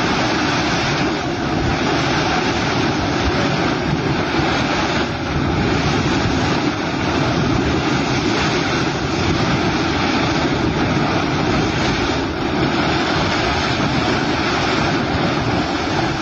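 A steady, loud rushing noise that holds level throughout, with no distinct events.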